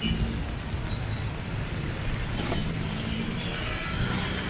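Street traffic: vehicle engines running close by over a steady rumbling noise.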